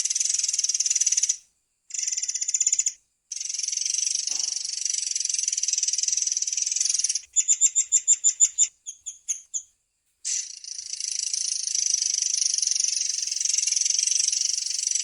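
Murai air songbird singing its long, high, rapid rolling trill. Two short breaks interrupt it early on. Around the middle come about ten separate clear, loud notes, then a few softer ones and a brief pause, before the long roll resumes.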